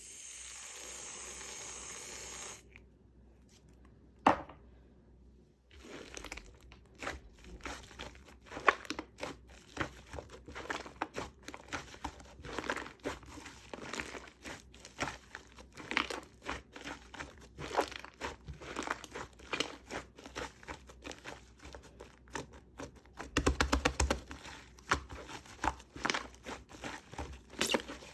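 A short steady hiss of shaving foam sprayed from a can, then black clay slime mixed with the foam being squeezed, stretched and poked by hand: dense, irregular sticky clicks and crackles. About four-fifths of the way through comes a quick run of louder clicking pops.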